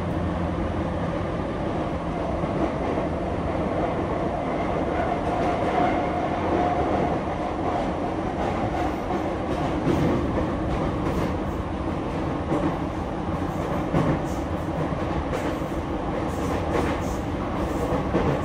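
Running noise inside a Sotetsu 10000 series electric commuter car in motion: a steady rumble of steel wheels on rail, with a few short clacks over rail joints about ten and fourteen seconds in.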